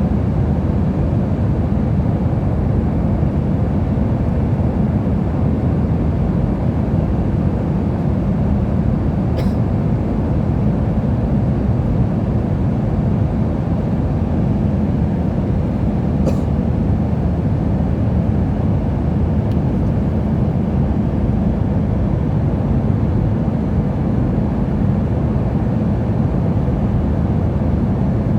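Steady engine and airflow noise heard inside an airliner's passenger cabin in flight, a constant low rushing hum, with two faint ticks about nine and sixteen seconds in.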